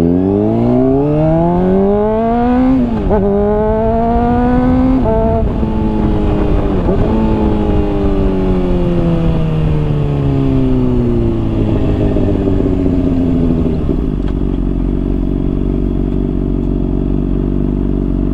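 Honda CBR600RR inline-four through a slip-on exhaust, accelerating hard with two quick upshifts about three and five seconds in. The revs then fall slowly as the bike rolls off and slows, settling to a steady low note for the last few seconds.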